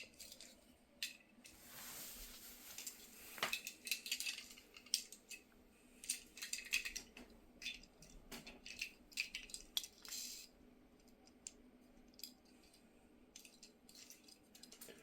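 Light clicks, taps and small rattles of a die-cast toy car being handled and turned in the hand, with a couple of brief rustles.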